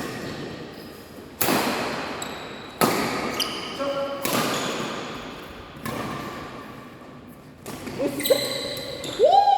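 Badminton rally: rackets smacking the shuttlecock about every one and a half seconds, each hit echoing in a large sports hall, with squeaks of shoes on the court near the end.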